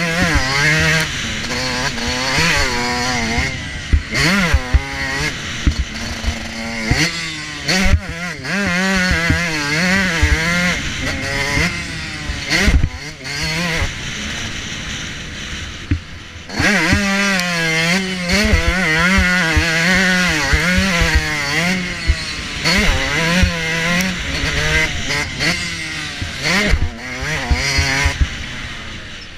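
Motocross bike engine revving up and down again and again through a ride, picked up onboard by a GoPro, with many short knocks and buffets. The revving eases off for a few seconds about halfway through, then picks up again.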